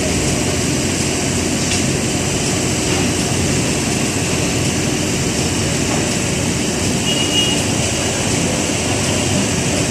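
Heavy construction machinery engine running steadily, a loud continuous mechanical noise with no let-up.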